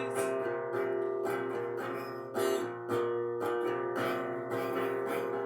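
Acoustic guitar strumming chords, with a fresh stroke about every half second.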